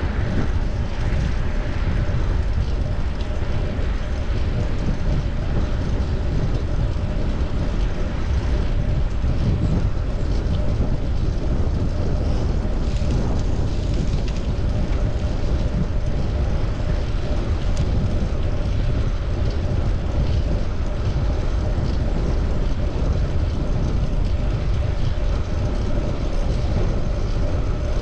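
Steady rush of wind over the microphone of a camera on a moving bicycle, mixed with road and traffic noise.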